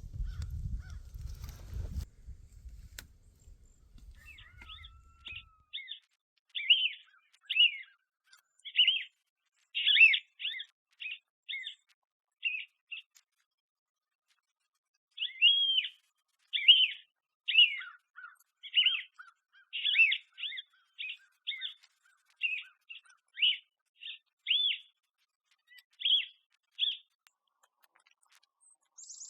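A small bird chirping over and over, short high notes in two long runs with a pause of about two seconds between them, after a low rumble in the first few seconds. Right at the end comes the sharp crack of a suppressed rifle shot.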